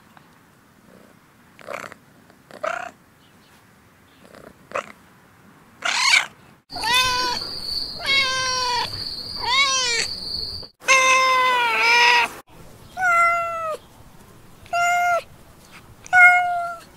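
A domestic cat meowing over and over, about a dozen meows one to two seconds apart: faint for the first few seconds, then louder from about six seconds in, some short and some drawn out. A steady high whine sits under the meows for a few seconds in the middle.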